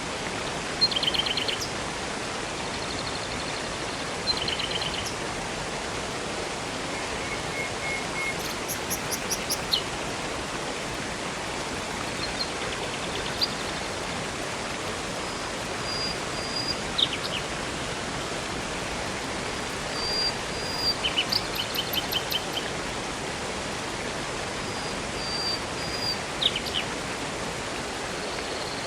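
Steady rush of a river and waterfall, an even hiss of water, with small birds chirping and trilling now and then above it in short clusters, several times over.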